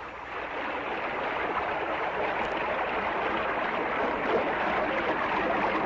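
Water rushing at a dam, a steady noise that builds up over the first second and then holds.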